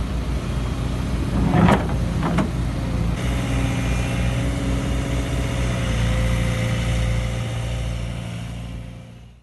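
JCB excavator's diesel engine running steadily under hydraulic load, with two loud clanks about one and a half and two and a half seconds in, then a steady hydraulic whine. The sound fades out near the end.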